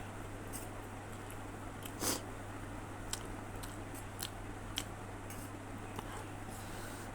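A person eating instant noodles close to the microphone: chewing and mouth sounds with scattered small clicks and one louder noise about two seconds in, over a steady low hum.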